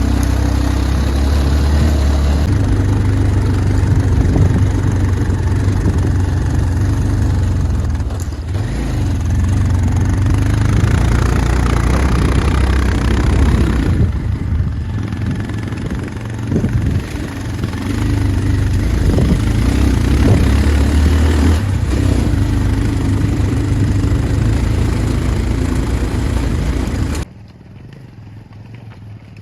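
Motorcycle engine running steadily while riding over a rough road, its low hum rising and falling a little. The sound drops abruptly near the end.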